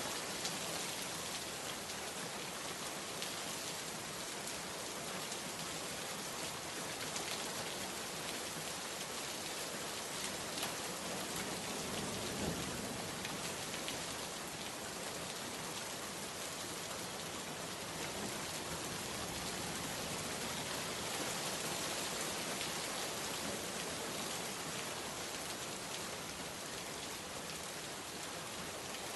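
Steady rainstorm: a dense, even hiss of rain falling on surfaces, with a brief low rumble near the middle.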